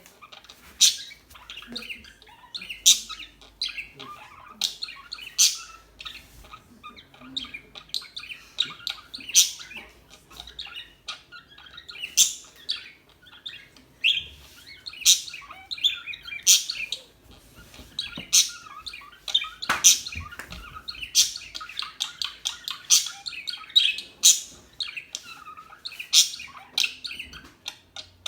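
Pet budgerigars chirping and chattering, with sharp high chirps every second or two over a steady softer warble.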